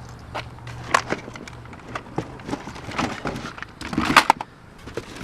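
Irregular knocks and clatters of hard objects being handled and moved around, with a cluster of louder knocks about four seconds in.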